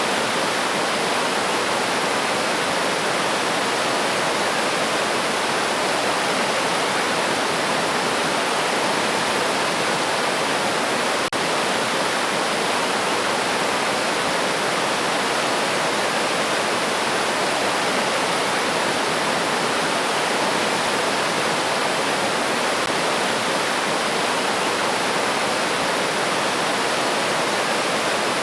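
River water rushing and splashing over rocks in a steady, unbroken wash of sound.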